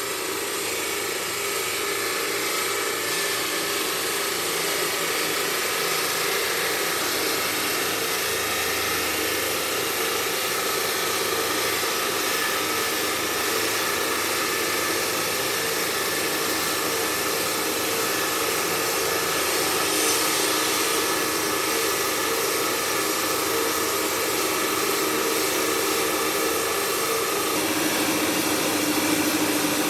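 Marble-working machinery running steadily: a loud, even noise with a held hum, whose pitch shifts near the end.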